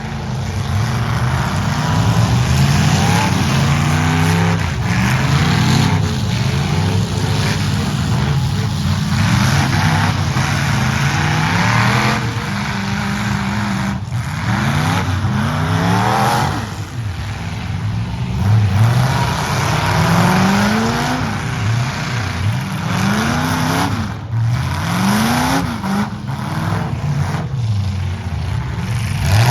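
Several demolition derby trucks' engines revving hard and easing off over and over, their rising and falling pitches overlapping.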